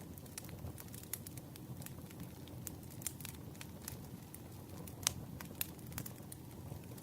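Campfire crackling: irregular sharp pops and snaps over a low, steady rumble of burning wood, with two louder pops about five seconds in and again half a second later.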